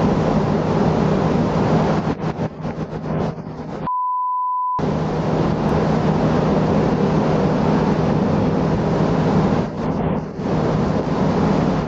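Loud, steady wind and water noise over a boat's low engine hum. About four seconds in, the sound cuts out for just under a second and is replaced by a single pure beep, a censor bleep over the clip's original audio.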